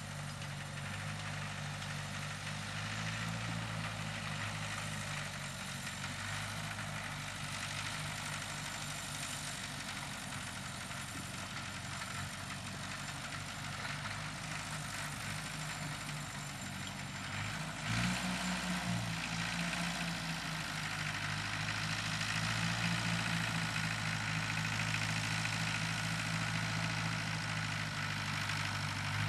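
Tractor engine running steadily as it pulls a plow through the soil. About two-thirds of the way through, its note shifts briefly and then settles a little louder.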